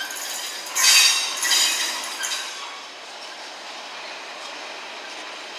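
A train on the track at a station: two loud metallic bursts about a second in, then a steady rushing noise.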